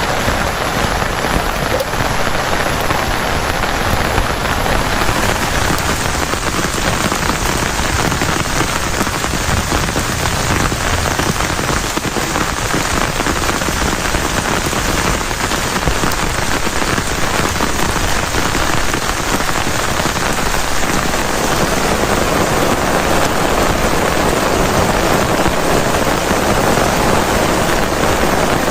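Heavy rain falling steadily, a loud, dense, even patter.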